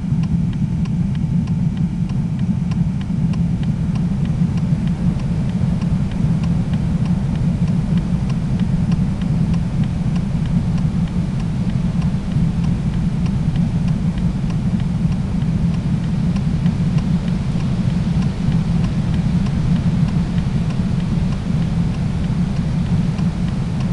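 Steady low rumble of a vehicle on the move, with faint, evenly spaced ticking over roughly the first half.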